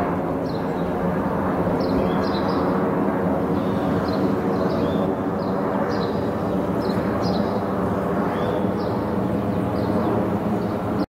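A steady mechanical drone with short, high bird chirps repeating every second or so over it. The drone cuts off abruptly near the end.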